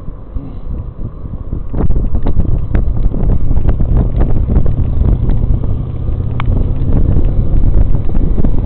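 Wind buffeting the microphone during an e-bike ride: a loud low rumble that grows stronger about two seconds in, with scattered small clicks and knocks.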